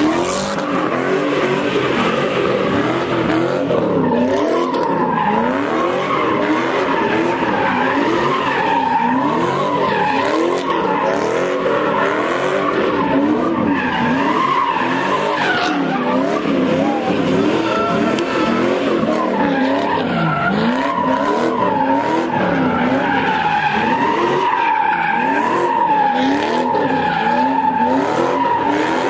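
A car doing donuts or drifting: tires squealing steadily while the engine revs rise and fall over and over.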